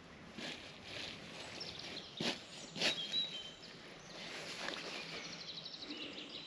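Woodland birds singing: short high chirps and, near the end, a fast trill of repeated high notes. Two sharp clicks, the loudest sounds, come a little after two seconds in.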